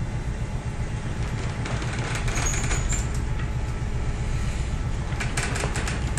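Ship's engine and machinery running, a steady low drone, with a few short clicks and knocks near the end.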